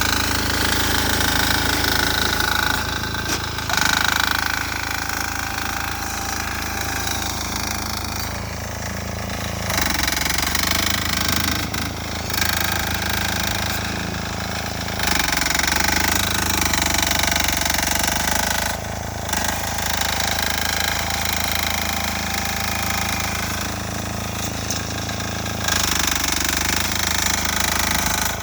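6 hp single-cylinder air-cooled diesel engine of a Sears Suburban garden tractor running under load, with a hard knocking beat, its level rising and falling in several stretches as the load on it changes.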